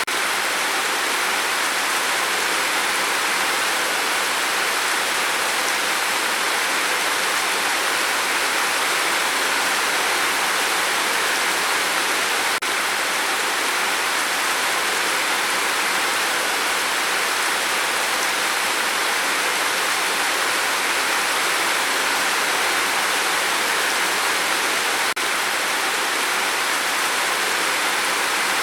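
Steady rain falling, an even hiss that stays level throughout, with a slight momentary dip twice, about twelve seconds apart.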